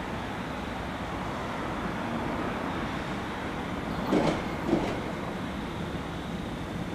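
SEPTA Silverliner IV electric multiple-unit train approaching on the rails, a steady rumble that grows slightly louder. Two sharp clacks come about four seconds in, half a second apart.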